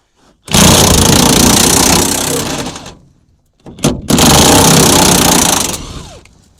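Impact wrench hammering in two bursts of about two seconds each, loosening a bolt.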